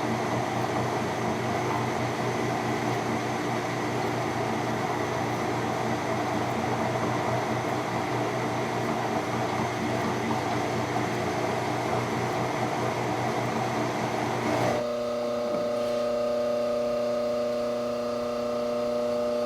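Metal lathe running steadily, turning an aluminium sphere for a light cut. About three-quarters of the way in, the sound changes abruptly to a cleaner, steadier hum.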